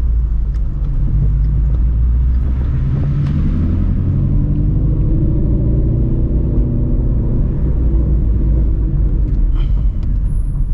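Straight-piped Shelby GT350's 5.2-litre flat-plane-crank V8, on long-tube headers, running steadily at low revs while cruising, its pitch swelling slightly and settling back around the middle.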